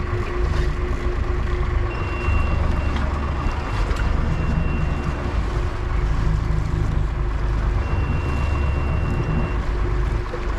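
Fishing boat's engine running steadily under way, with wind and water noise. A thin high-pitched tone sounds on and off three times.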